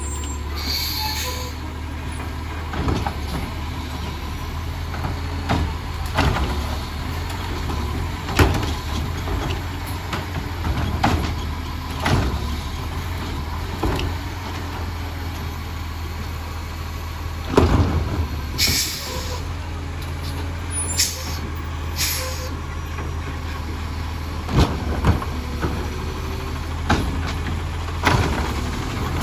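Recycling truck's engine running steadily, with frequent sharp clanks and knocks and a few short hisses of air a little past the middle.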